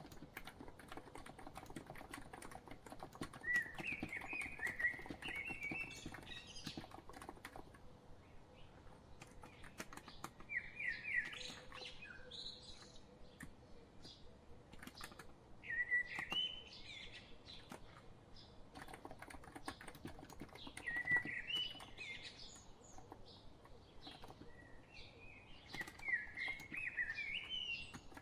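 Continuous typing on a COX Empress electro-capacitive keyboard, a steady patter of soft key clicks. Over it, a bird sings short phrases of quick falling chirps, about once every five seconds.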